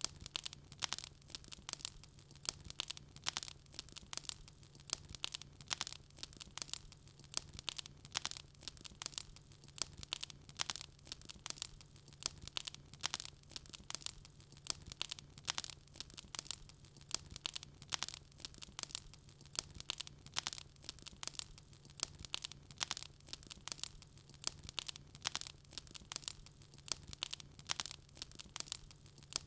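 Wood fire crackling, with a steady stream of sharp pops and snaps several times a second over a faint steady low hum.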